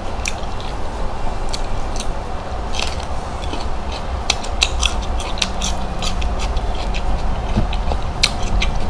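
Close-up eating sounds: irregular small crackles and clicks of cooked shrimp shells being cracked, peeled and chewed, over a steady low background hum.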